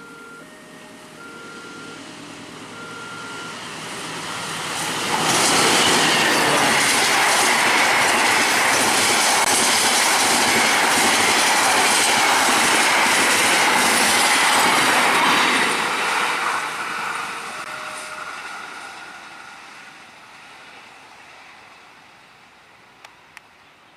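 Level-crossing warning alarm sounding in short, repeated electronic tones, then a train passing through the crossing at speed. Its wheels run loudly over the rails for about ten seconds before fading away, and the alarm tones come back briefly as it recedes.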